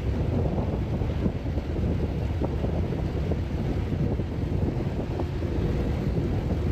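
Steady wind rumble buffeting the microphone aboard a moving river boat, over the low noise of the boat underway.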